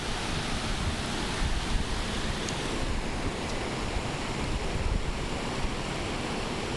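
Steady rush of a flowing creek, with wind buffeting the microphone.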